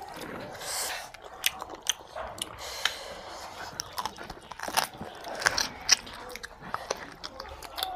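Close-up mouth sounds of two people eating rice and mutton curry by hand: chewing and lip-smacking, with many irregular sharp wet clicks.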